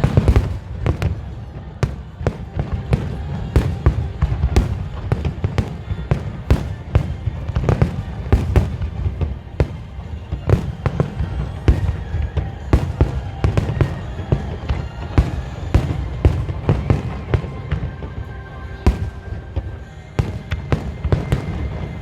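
Fireworks display going off: a rapid, continuous barrage of bangs over a low rumble.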